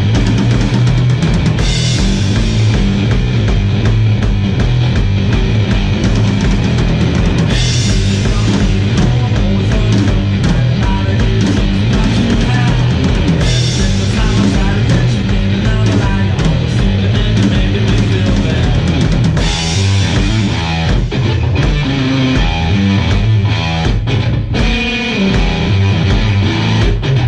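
Rock band playing live: electric guitar, bass and drum kit in a loud instrumental passage with regular drum hits and crashing cymbals every few seconds. Near the end the drums thin out and the playing turns more broken.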